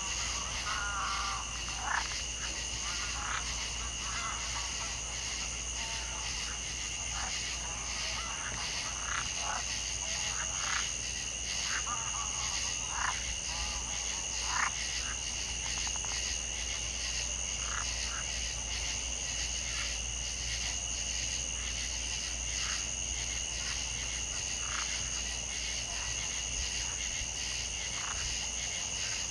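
Frog chorus: a steady, high, continuous trilling, with scattered short calls over about the first half.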